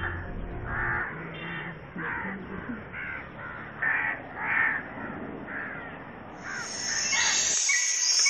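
A crow cawing over and over, about two caws a second. Near the end a high, steady chirring with regular ticks takes over, like insects in a forest ambience.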